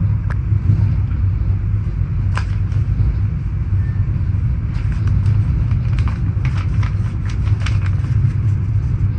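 Steady low rumble of a moving passenger train, heard from inside a sleeping car. A cluster of sharp clicks and rattles comes from about five to eight seconds in.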